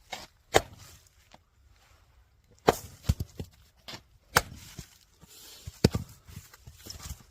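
Firewood being split: four sharp chopping strikes, spaced about one and a half to two seconds apart, each followed by a few lighter knocks of wood.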